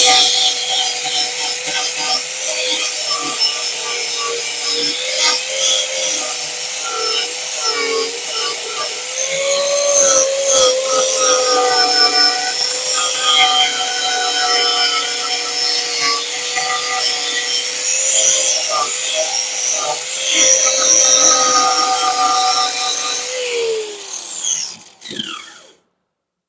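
Corded power tool cutting into wood: a steady motor whine under load with scratchy, rasping wood noise, then the trigger is released and the motor winds down and stops about 23 seconds in.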